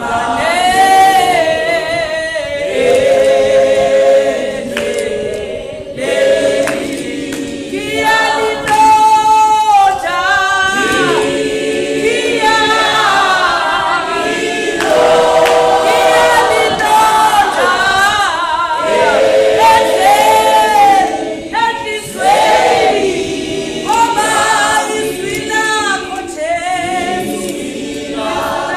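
A church congregation singing a gospel hymn together, unaccompanied voices in harmony.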